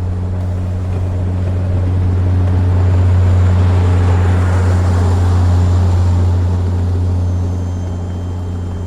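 Snowmobile engine running at a steady low pitch, with a rush of noise that swells and fades in the middle.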